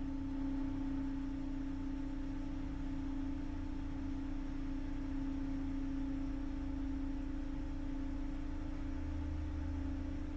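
A steady low-pitched hum, one unchanging held tone, over a faint low rumble.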